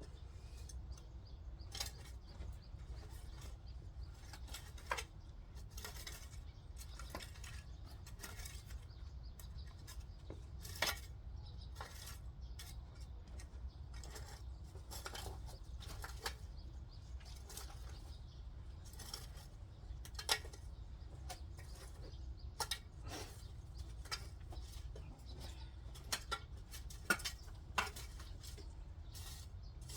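Irregular light clicks and clinks of small hard objects over a steady low rumble, with a few sharper knocks about 5, 11, 20 and 27 seconds in.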